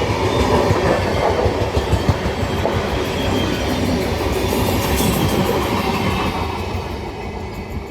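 An express passenger train passing close by: its wheels rumble and clatter over the rail joints, and the sound fades away near the end as the train draws off.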